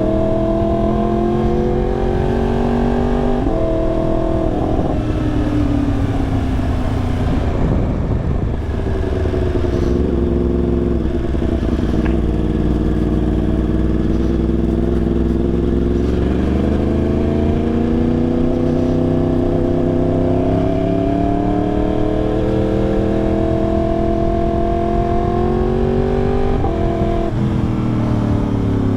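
2022 Yamaha R1's crossplane inline-four with a full exhaust, ridden through the gears. The note climbs and drops sharply at an upshift about three seconds in, then falls away as the throttle eases. It holds steady, then climbs for about ten seconds before another sharp drop at an upshift near the end.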